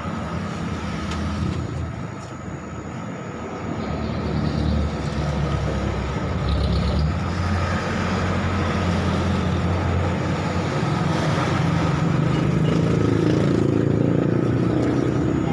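Steady low rumble of road vehicle engine noise, getting louder a few seconds in and holding.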